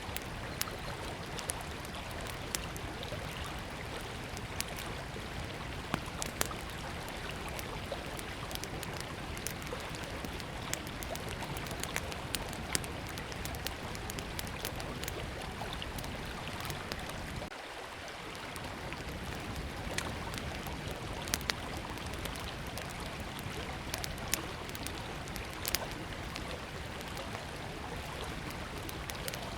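Small wood campfire crackling, with irregular sharp pops and snaps, over the steady rushing of a river.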